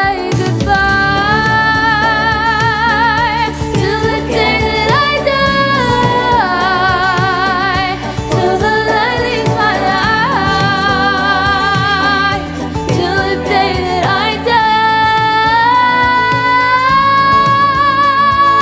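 Music: a singer holding long notes with wide vibrato over a sustained accompaniment, ending on one long held note that slowly rises.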